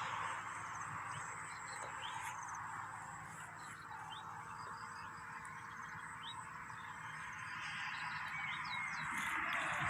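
Faint outdoor ambience: a steady hiss with short, high animal chirps scattered through it. A low rumble from a vehicle fades out at the start.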